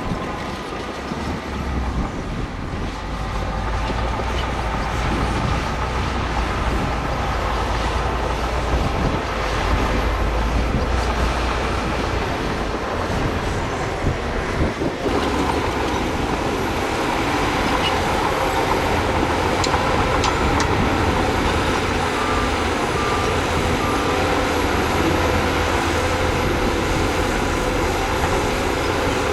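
Heavy diesel earthmoving machinery running steadily at work, a deep engine rumble under a dense mechanical din, with an abrupt change about halfway through.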